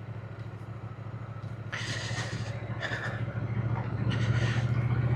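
Triumph motorcycle engine running steadily while riding, growing louder toward the end. Several short bursts of rushing hiss come through over it.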